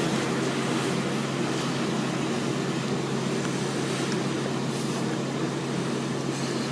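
Automatic car wash machinery running: a steady hum under a constant rush of noise, with no strokes or breaks.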